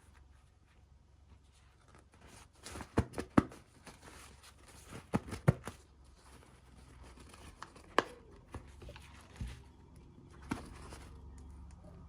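Toy packaging being handled and opened: scattered crinkles and sharp clicks of plastic and cardboard, in two quick clusters about three and five seconds in and a single sharp click at about eight seconds.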